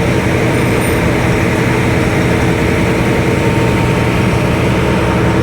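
Ferry boat's engine running steadily under way, a loud, constant low drone with steady hum tones.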